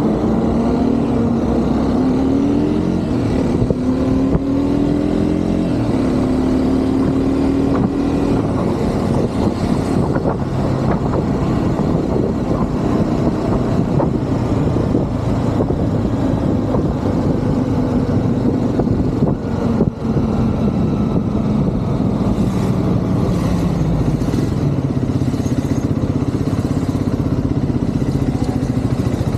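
Triumph Scrambler 400 X's single-cylinder engine under way, its pitch climbing in steps through several gear changes in the first eight seconds, then running steadier and falling off later as the bike slows. City traffic noise runs underneath.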